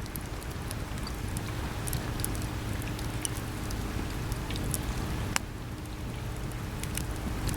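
Wood campfire crackling, with scattered sharp pops and one louder snap about five seconds in, over a steady low wash of sea waves.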